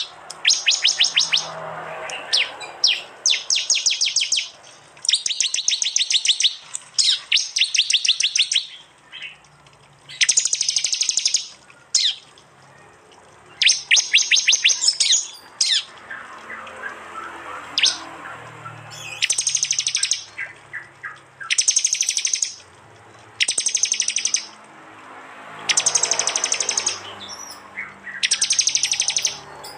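Prinia (prenjak) song in the fast 'tembakan' style: about a dozen bursts of rapid, evenly repeated sharp high notes, each burst lasting around a second, separated by short pauses.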